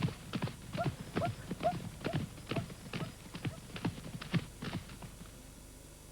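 Hoofbeats of running wildebeest pounding on the plain, an irregular string of knocks that fades away about five seconds in.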